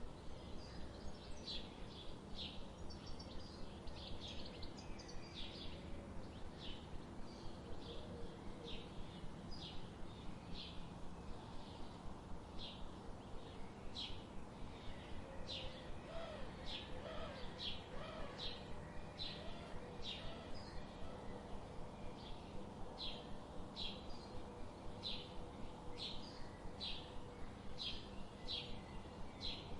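Birds chirping: a steady run of short, high chirps, a little more than one a second, with fainter lower calls in the middle and a soft background hiss.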